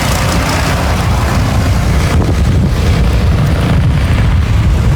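Wind buffeting the microphone of a camera carried on a moving bicycle: a loud, steady rumbling rush.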